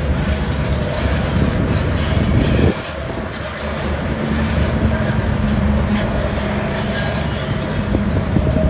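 Heavy diesel construction machinery running with a steady low rumble; the level drops suddenly about three seconds in, then the engine holds a steady hum.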